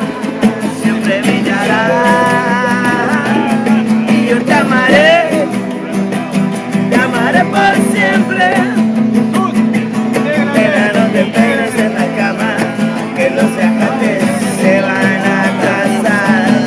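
Strummed acoustic guitar with voices singing along in Spanish, a sing-along of an old song.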